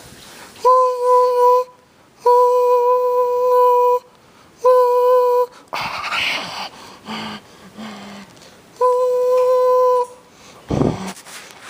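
Car horn sounded four times, with steady blasts of uneven length (about one to two seconds each) and short gaps between them. A thump comes near the end.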